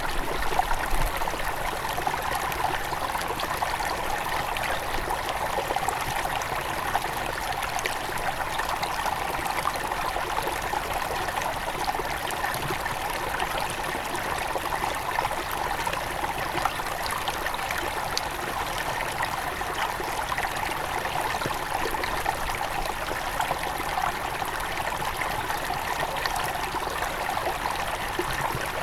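Small mountain stream flowing over stones near its source, a steady rushing and babbling with fine splashing flicker throughout.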